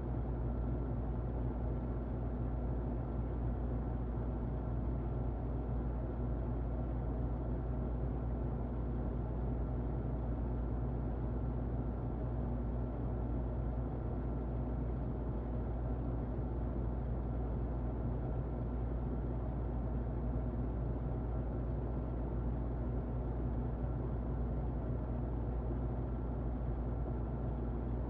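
Muffled electric fan running: a steady low noise with a faint high whine held above it.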